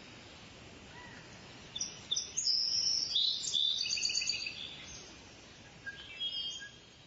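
Songbirds chirping and singing in a busy burst of high, quick notes from about two seconds in to about five seconds, with a shorter phrase near the end, over a faint steady outdoor background.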